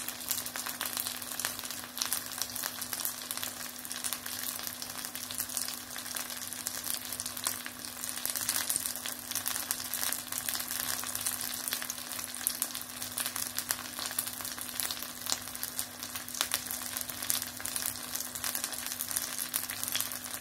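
Breaded beef schnitzels sizzling in shallow oil in a cast-iron skillet, a steady dense crackle of small pops and spatters. A steady low hum runs underneath.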